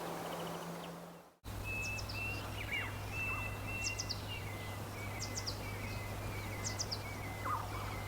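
Birds chirping and whistling, with repeated short high chirps and thin held notes over a steady low hum and background noise. The sound cuts out briefly about a second and a half in, and the birdsong starts after the break.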